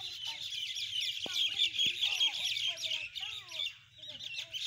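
Many small birds chirping in a dense, continuous chatter of quick high notes, with lower gliding squeaks breaking in now and then.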